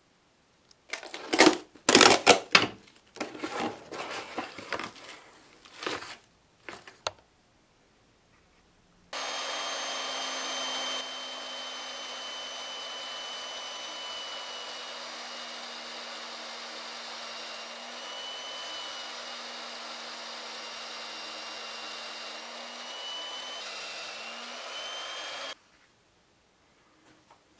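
A cluster of sharp wooden knocks and clatter in the first few seconds. Then a bench drill press runs steadily, boring a spade bit into a thick wooden workbench leg: a motor hum with a high whine, the pitch dipping slightly a couple of times under load.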